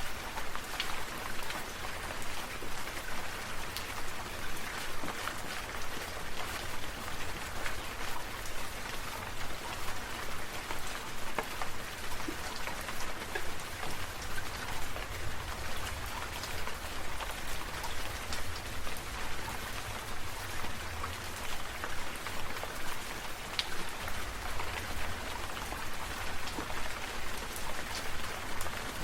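Steady patter of falling water drops, rain-like, with many small separate drop ticks.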